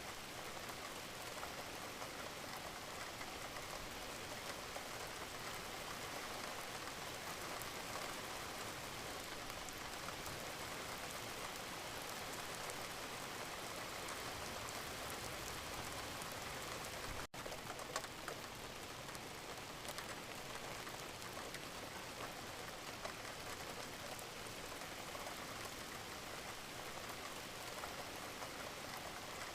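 Wood fire crackling in a fireplace: a steady, dense crackle of small pops. There is a brief dropout about 17 seconds in and one louder pop just after it.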